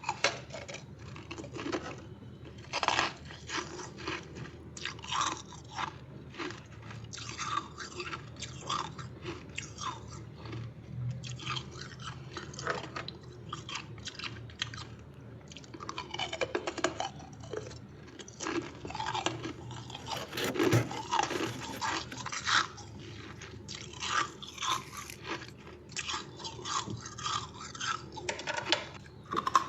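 Freezer frost being bitten and chewed close to the microphone: a continuous run of irregular sharp crunches, several a second.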